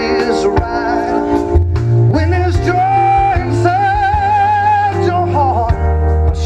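Live band playing a soul-rock song with a male lead singer. The voice holds two long notes with vibrato through the middle, over a steady bass line and drum hits.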